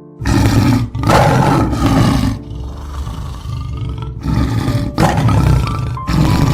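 A large animal roaring in a series of loud, harsh bursts, about five of them with a quieter gap in the middle, over soft background music.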